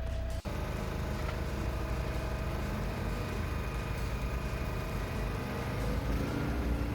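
An engine running at a steady speed, after an abrupt cut from another steady engine-like sound about half a second in.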